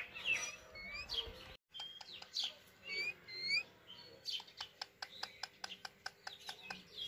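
Birds chirping: short, quick, rising chirps. In the second half comes a run of fast ticks, about five a second.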